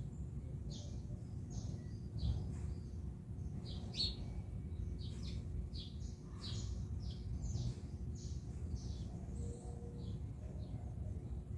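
Small birds chirping, many short high chirps in quick, irregular succession over a steady low rumble.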